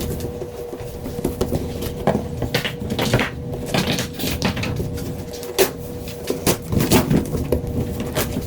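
Cardboard box and packing being handled and opened: irregular scrapes, rustles and knocks. A steady faint hum runs underneath.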